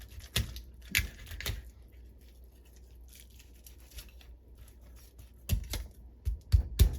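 Kitchen knife cutting and chopping on a cutting board: a few sharp snipping clicks in the first second and a half, a quieter stretch, then heavy, evenly spaced chops in the last second and a half.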